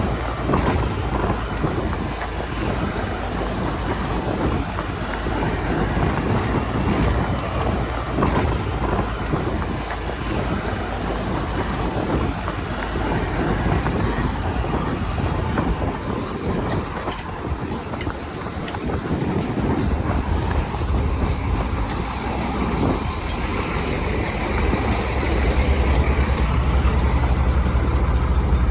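Heavy diesel earthmoving machinery running steadily, with scattered knocks and clanks; the low rumble grows louder near the end.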